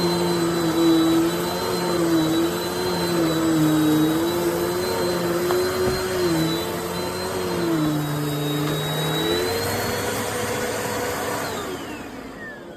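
Dirt Devil Multi-Surface+ upright bagless vacuum cleaner running, its motor pitch wavering up and down. Near the end it is switched off and the motor winds down with a falling whine.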